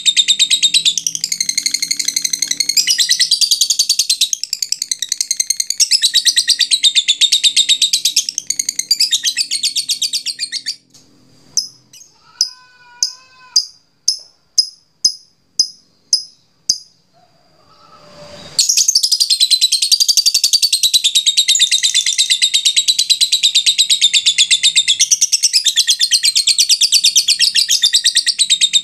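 Lovebird's long, rapid chattering trill (ngekek), high and continuous. About eleven seconds in it breaks off into a run of separate sharp ticking chirps (ngetik), then the long chatter starts up again about seven seconds later.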